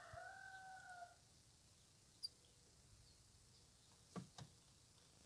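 A bird call: one long drawn-out call, faint, that ends about a second in, followed by a brief high chirp and two soft clicks near the end.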